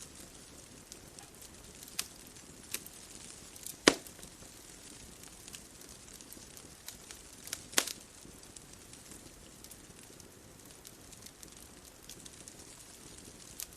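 Bonfire crackling: scattered sharp snaps over a steady soft hiss, with two loud pops about four and eight seconds in.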